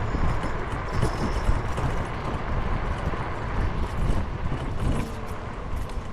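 Rushing wind noise and road and traffic noise from riding a scooter along a city road. The rush eases a little near the end.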